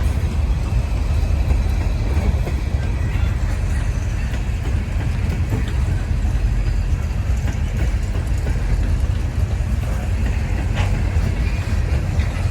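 CSX freight train rolling past slowly: a steady low rumble, with a few sharp clicks from the wheels near the end.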